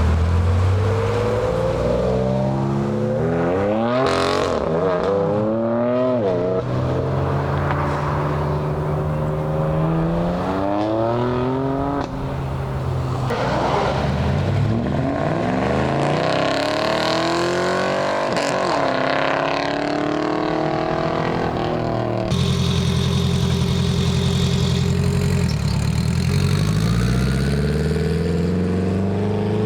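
Car engines revving and accelerating as cars pull out and drive past, one after another. The exhaust pitch repeatedly climbs through the gears and drops again. The sound changes abruptly twice, about twelve and twenty-two seconds in.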